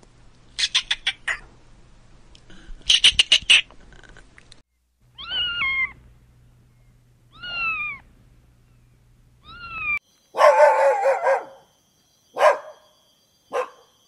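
A chipmunk chipping in two quick runs of high chips. A cat meows three times, each meow falling in pitch. A dog then gives one longer bark followed by two short barks.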